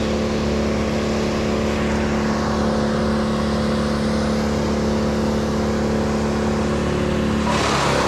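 An engine running steadily at a constant pitch. Near the end its tone changes abruptly and turns rougher.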